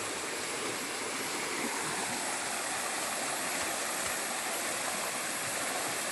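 Steady rushing of flowing water, such as a stream or small waterfall, unchanging throughout.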